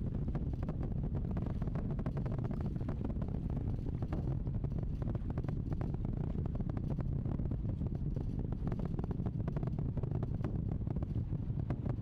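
Space Launch System rocket climbing under its four RS-25 core-stage engines and two solid rocket boosters: a steady low rumble with a dense crackle.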